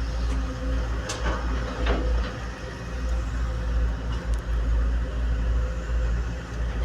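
Heavy machinery engine running with a steady low rumble, with a few faint clicks about one and two seconds in.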